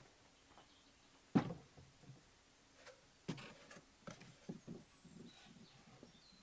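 A few sharp knocks and clatters at uneven intervals, the loudest about a second and a half in, then a cluster of lighter ones. Faint high bird chirps can be heard behind them.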